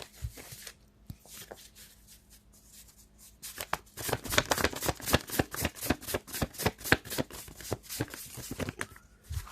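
A deck of tarot cards being shuffled by hand: a few light clicks, then, a few seconds in, a fast run of card flicks that stops just before the end.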